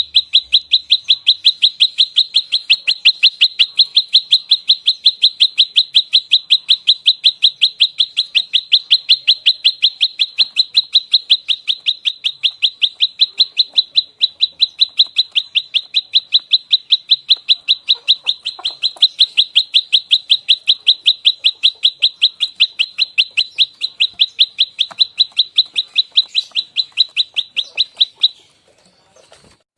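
Prenjak lumut song in its fighting call: a fast, unbroken run of sharp, high chirps, about five a second. It breaks off shortly before the end.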